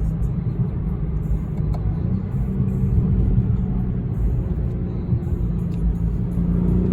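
Car engine and road rumble heard from inside the cabin while cruising, a steady low drone whose engine tone edges slightly higher in pitch through the second half.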